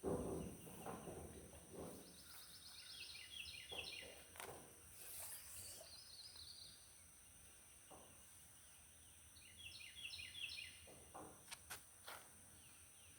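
A songbird sings twice, each song a quick series of repeated notes stepping down in pitch, over a faint steady high insect hiss. There is a soft thump at the start and a few sharp clicks near the end.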